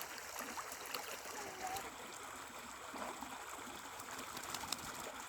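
Running, trickling water, a steady even rush with small scattered splashes and drips.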